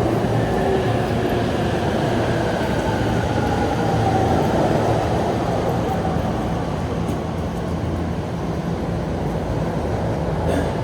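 Electric train running at a station platform, a steady rumble with a faint motor whine that slowly falls in pitch, as when the train slows.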